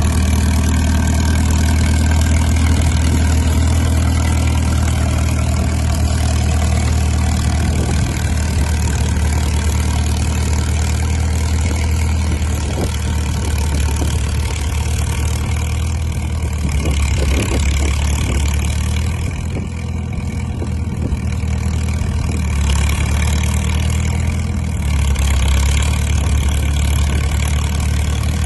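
Old crawler dozer's engine running at a steady idle just after a cold-weather start on choke. Its note changes briefly a little past the middle.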